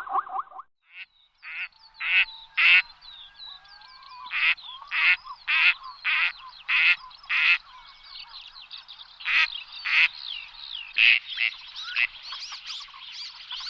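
Repeated short, harsh animal calls, coming in runs of about two a second with pauses between, over fainter high chirps.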